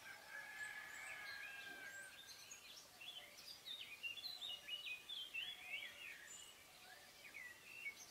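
Faint birdsong outdoors: many short chirps and whistles from several birds, with one longer held note near the start.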